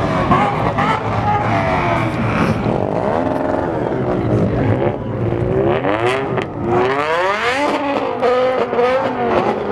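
Car engines revving, their pitch rising and falling repeatedly.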